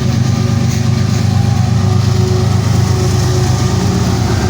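Diesel-electric freight locomotive, a distributed power unit pushing at the rear of a Kansas City Southern train, running steadily with its engine working hard under load; a loud, continuous low drone.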